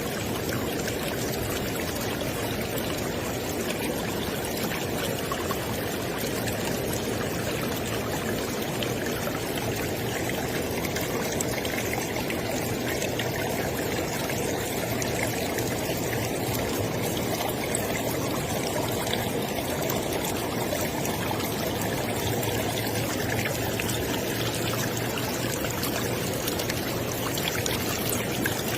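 River water flowing and splashing steadily over rocks, a continuous rushing and burbling with no let-up.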